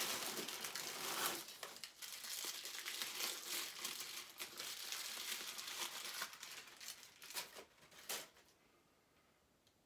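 Handling noise: crinkling and rustling with many small clicks and knocks as packaging and statue parts are moved about. It stops about eight seconds in.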